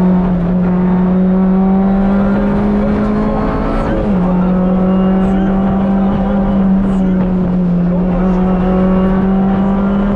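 Rally car engine heard from inside the cabin, pulling hard along the stage. Its note climbs slowly, drops sharply at a gear change about four seconds in, then climbs again.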